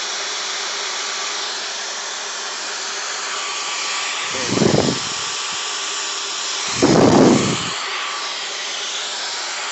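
Dyson V15 Detect cordless stick vacuum running steadily at full suction: a rushing airflow over a faint steady motor whine. Two brief louder whooshes come about four and a half and seven seconds in.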